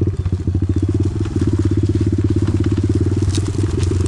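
Small off-road engine running at low revs close by, a fast, even chug. A few faint ticks sound about three seconds in.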